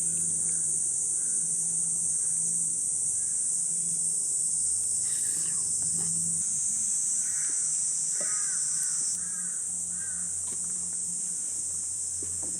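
Summer insects droning steadily and high-pitched in the forest. Partway through, a bird calls several times in quick succession.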